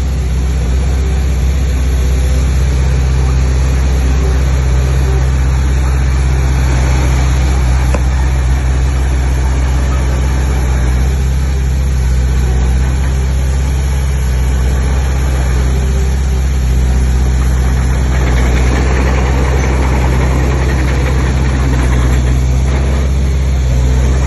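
Heavy diesel engine of earthmoving machinery running steadily: a deep, constant drone with rough mechanical noise over it, the noise growing somewhat stronger over the last several seconds.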